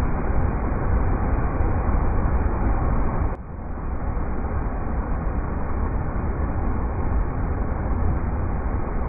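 River rapids: steady rushing water, full and rumbling, with a brief dip in level about a third of the way in.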